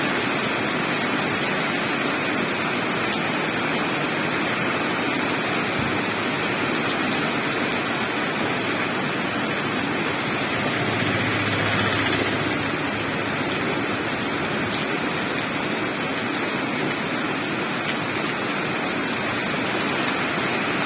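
Steady rushing noise of flowing water, with a brief low hum a little past halfway.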